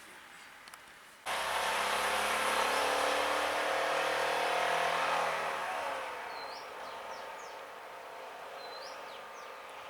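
A motor vehicle engine running close by, starting abruptly about a second in, loudest for a few seconds, then easing off with its pitch dropping slightly. Several short rising bird chirps come in over it near the end.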